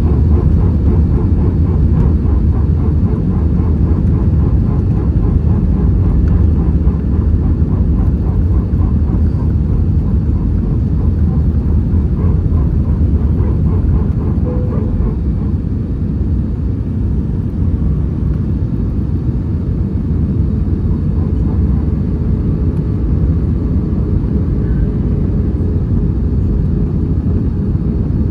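Steady low rumble inside the cabin of an Airbus A320-232 in flight: airflow over the fuselage and its IAE V2500 engines, with a faint steady hum on top.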